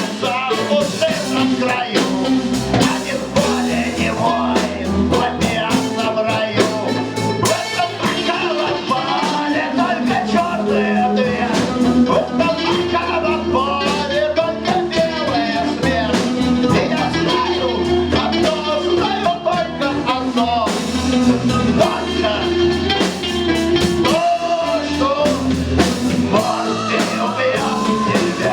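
Live rock band playing a song with a lead vocal, over a drum kit and bass.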